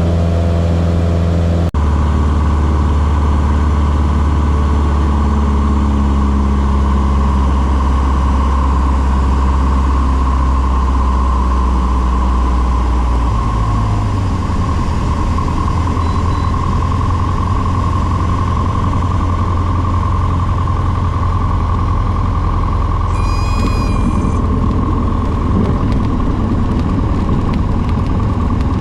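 Small airplane's piston engine and propeller running steadily, with a loud, even drone; the engine note shifts slightly about halfway through. A short high electronic tone sounds briefly near the end.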